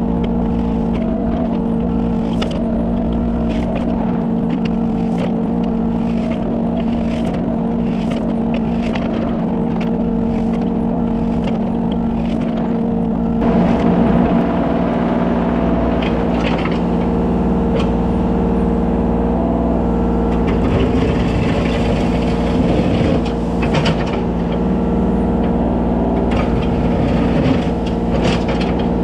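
Kubota 33 mini excavator's diesel engine running steadily under load, with scattered scraping and clattering of gravel as the bucket back-drags a crushed river rock road. The engine gets louder about halfway through.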